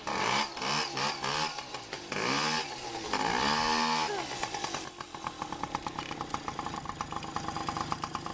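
Small kick-started motorbike engine revved in several rising-and-falling blips, the last and longest about three to four seconds in, then settling to a steady idle.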